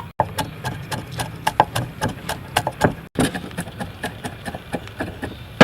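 Kitchen utensils knocking and tapping irregularly during food preparation, many short knocks in an uneven rhythm, broken twice by sudden brief gaps.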